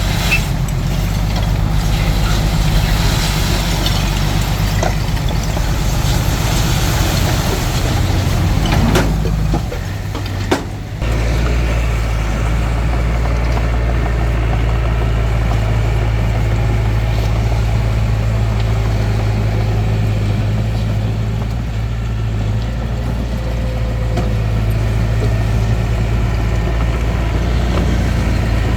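Diesel engine of a Hitachi DX45M small bulldozer running steadily while it works, with a hiss of scraping and grinding noise over the engine in the first several seconds. About ten seconds in the sound briefly drops and there is a sharp click, then the engine carries on at a steady, lower note.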